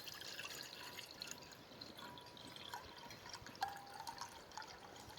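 Water being poured into a cooking pot: a faint trickle with small drips.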